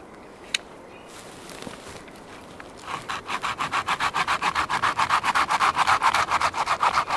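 Hand saw cutting through a piece of firewood in fast, even back-and-forth strokes, starting about three seconds in. A single sharp click comes just before, near the start.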